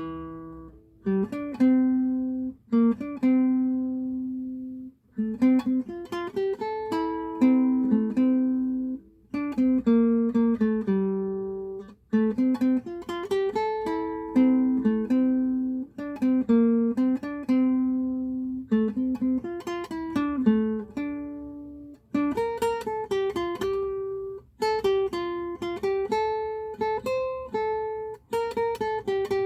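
Solo acoustic guitar playing a slow melody with plucked notes. It goes in short phrases, each note ringing and fading, with brief gaps between phrases.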